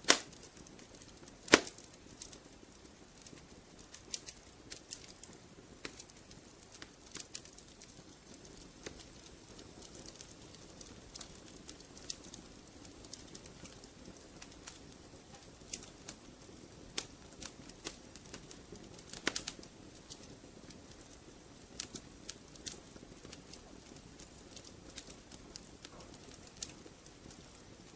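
Wood fire crackling in a fireplace: irregular snaps and pops over a soft steady hiss, with two loud pops right at the start and another about a second and a half in.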